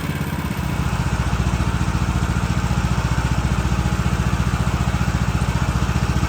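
Woodland Mills HM130 Max sawmill's gas engine idling steadily while it warms up after the clutch repair, settling into an even pulsing run about half a second in.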